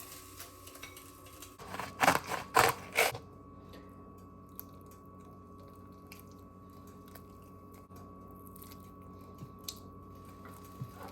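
A quick run of loud crunching noises, about four in a second and a half, about two seconds in, over a faint steady hum.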